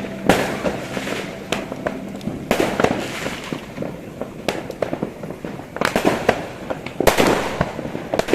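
Many fireworks going off at once: a dense, irregular run of bangs and crackling pops, with the loudest blasts about seven seconds in.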